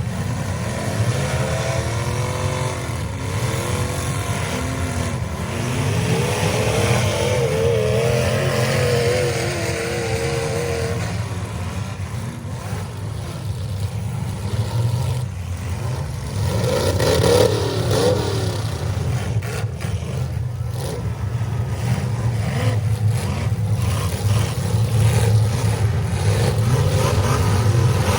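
Demolition derby cars' engines running and revving hard, their pitch rising and falling. A few bangs of cars hitting each other come about halfway through.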